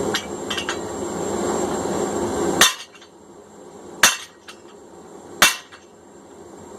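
Four sharp, ringing blows of a hand hammer on hot steel at the anvil, about one every second and a half, driving fullers into a cross peen hammer billet. Before the first blow a steady rushing noise runs and cuts off suddenly.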